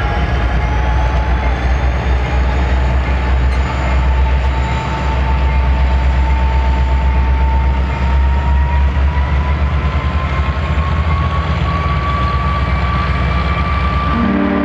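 A freight move passing close by: Union Pacific diesel locomotives hauling the Big Boy steam locomotive No. 4014, which is not under steam. A steady heavy rumble of engines and rolling wheels, with a thin whine that slowly rises in pitch.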